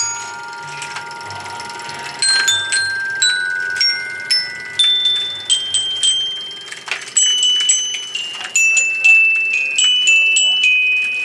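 A cheap glockenspiel played with mallets: a slow melody of single struck notes, each ringing and fading, with a pause of about two seconds after the first note.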